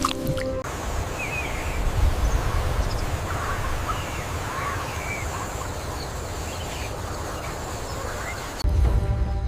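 Outdoor nature ambience: a steady hiss over a low rumble, with faint, scattered chirping animal calls. The sound changes abruptly near the end.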